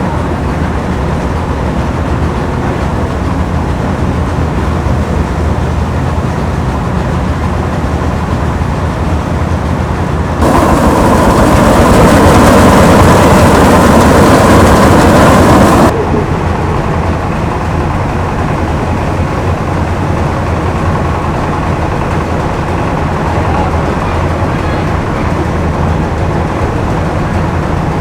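Engine of a rice harvesting machine running steadily. For about five seconds in the middle, a louder rushing noise sets in over it and cuts off abruptly.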